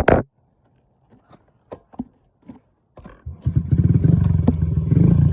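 Dirt bike being kick-started: a loud clunk of the kickstarter at the start, a few light clicks, then the engine catches about three and a half seconds in and runs steadily.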